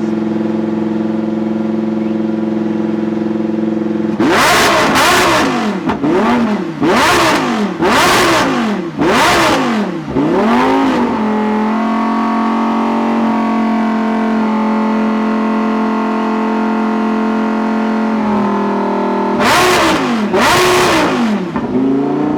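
Lamborghini Huracán Super Trofeo race car's V10 engine idling, then blipped through a quick run of sharp revs that rise and fall, settling back to idle before two more revs near the end.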